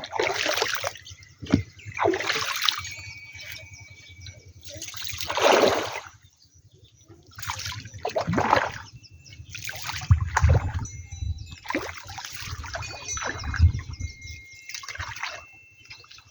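Water splashing and pouring in a series of separate swells, about ten in all, each lasting up to a second.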